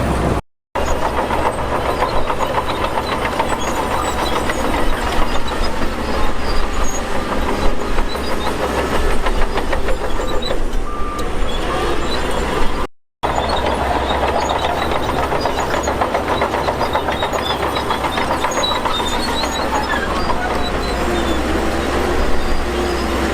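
Diesel bulldozer running under load, its steel tracks clattering and rattling, over a steady low engine note. The sound cuts out briefly twice.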